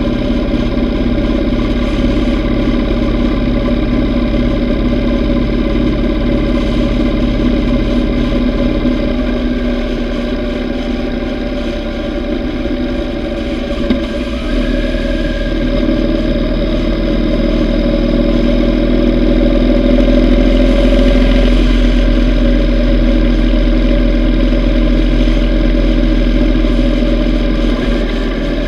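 Yamaha V Star 950's air-cooled V-twin engine running steadily while the motorcycle is ridden, with a low rumble of wind and road noise. A brief click about halfway through, after which the engine note shifts and gets slightly louder.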